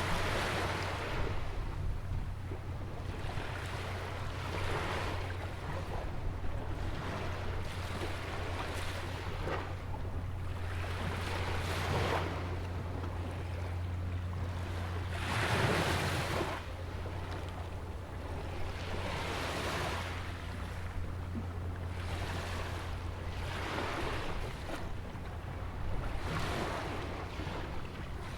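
Small ocean waves breaking and washing against a rock jetty and sandy shore, a new wash every few seconds, the largest about halfway through. A steady low rumble of wind on the microphone runs beneath.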